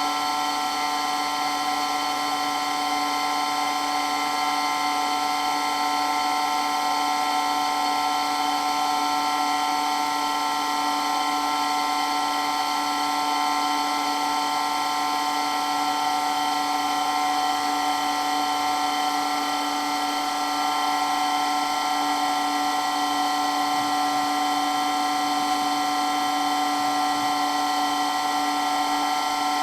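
Water pump running steadily with a loud, unchanging whine.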